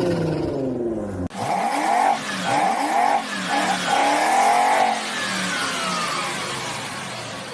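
Car engine revving; after an abrupt cut about a second in, another engine revs up and down several times in quick succession, then its pitch falls away steadily.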